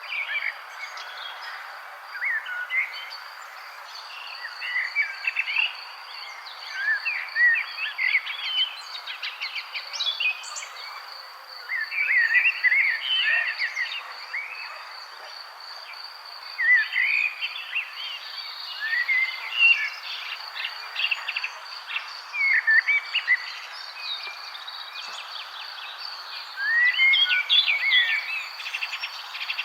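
Songbirds chirping and singing in short, overlapping bursts of quick notes. Under them runs a steady, high, pulsing insect trill of the cricket kind, over a constant background hiss.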